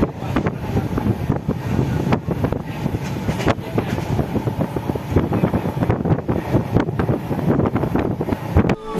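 Passenger train running at speed: a steady rumble of wheels on rails, dense with irregular knocks and clatter, with wind on the microphone. It stops abruptly near the end.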